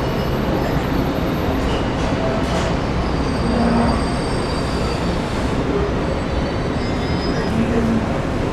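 Commuter train running on the tracks: a steady, loud rumble with faint high-pitched wheel squeal over it.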